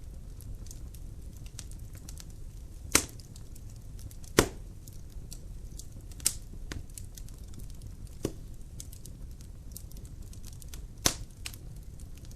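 Logs burning in a fireplace: a steady low fire rustle under many small crackles, with five sharp louder pops of splitting wood spread through.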